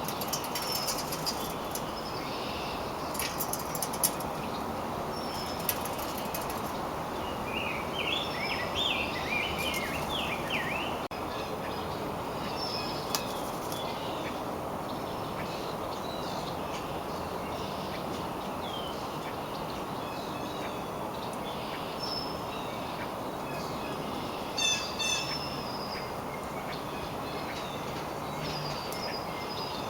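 Wild songbirds chirping and calling in short scattered notes over a steady background hiss, with a busy flurry of chirps about eight to ten seconds in and a sharp call near twenty-five seconds.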